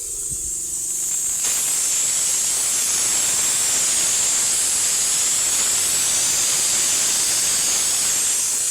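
Pressurised spray hissing steadily, louder from about a second and a half in.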